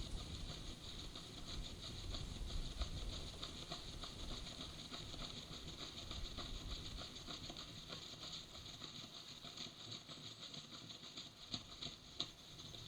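Rain pattering steadily, many fine drops ticking on the nest and its surroundings during a thunderstorm downpour. A low wind rumble underneath dies away about eight seconds in.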